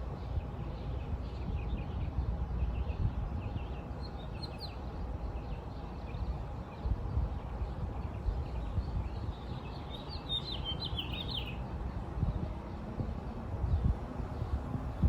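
Small birds chirping, with a quick flurry of calls about two-thirds of the way through and fainter chirps throughout, over a continuous low background rumble.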